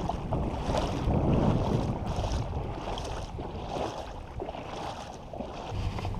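Wind buffeting the microphone, an uneven low rumble rising and falling, with scattered light clicks.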